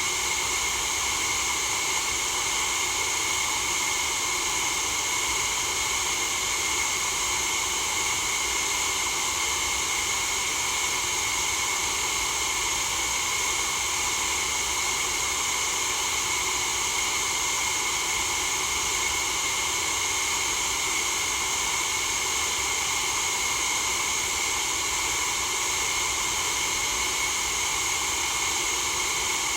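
Steady white noise: an even, unchanging hiss, brightest in the high range, with no rhythm, breaks or changes.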